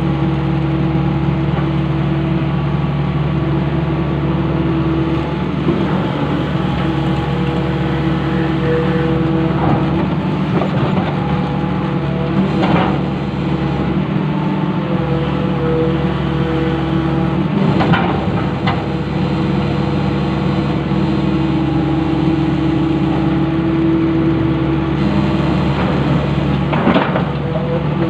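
Long-reach excavator's diesel engine running steadily, with a few sharp clanks about halfway through and near the end.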